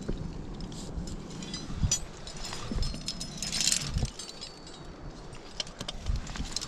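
Metal climbing gear clinking and jangling as a climber moves on rock, with several dull thumps and a brief scrape a little past halfway.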